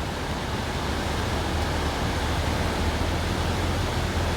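Steady rushing of a flooded river's fast-flowing water, an even wash of noise with a low rumble underneath.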